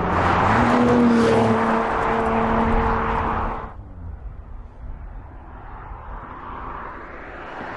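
Audi RS 5 Coupé engine pulling hard with a steady note that steps up slightly about half a second in, then falling away sharply just before the halfway point to quieter engine and road noise.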